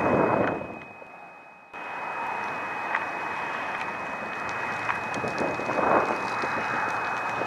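Wind buffeting the built-in microphone of a camcorder that is covered with cellophane and scotch tape, a low rumbling rush. A gust at the start fades into a short lull about a second in. The rush then comes back abruptly, and another gust swells near the end. A faint steady high whine runs underneath.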